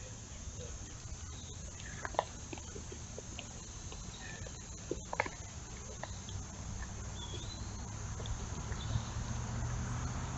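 Steady high-pitched insect chorus outdoors, with a few sharp clicks about two and five seconds in and a brief wavering chirp near seven seconds.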